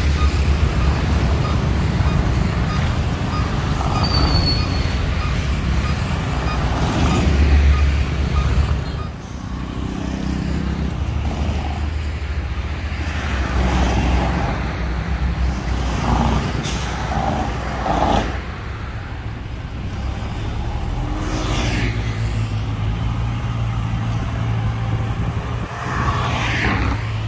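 Heavy diesel dump-truck engine running, its level dropping about nine seconds in, with a few short air hisses later on.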